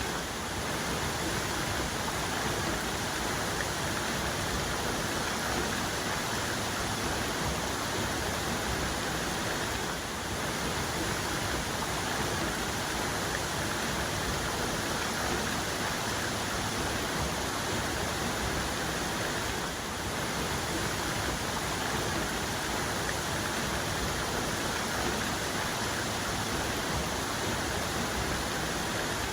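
Steady rushing of a waterfall's main cascade, falling water making a dense, even noise with no changes.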